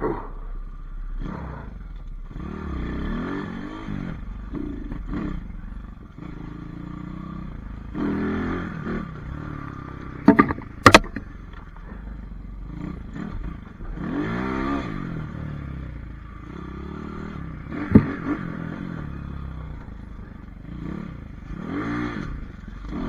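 Pit bike engine revving up and down repeatedly as it is ridden. A few sharp knocks come about ten to eleven seconds in and again about eighteen seconds in.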